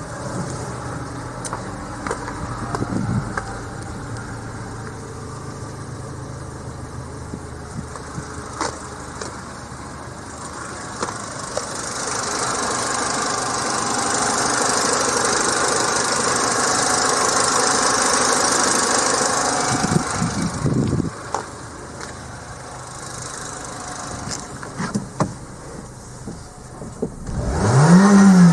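Renault Kangoo's 1.6 K4M four-cylinder petrol engine idling, with brief blips of the throttle about 3 seconds in, about 21 seconds in and a bigger rev near the end. A louder, hissy stretch runs through the middle.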